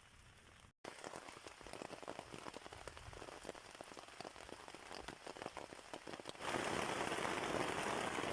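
Rain falling, a dense patter of separate drops, which gives way about six seconds in to a louder, steady hiss of heavier rain.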